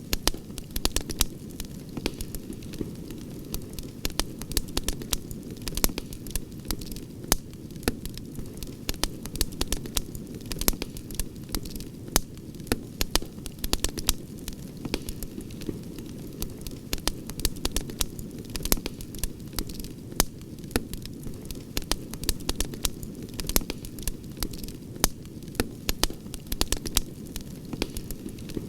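Campfire crackling, with many sharp, irregular pops over a steady low rush of burning wood.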